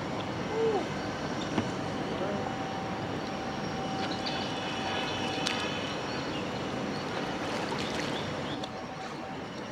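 Steady outdoor background noise with a faint constant hum, broken by a couple of short chirps about half a second and two seconds in, and a light click or two.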